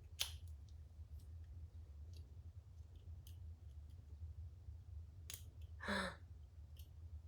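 Scattered small clicks and taps of hands handling a small plastic nightlight and its packaging: a sharp click right at the start, faint ticks, then two more clicks near the end. A brief murmur about six seconds in, over a steady low hum.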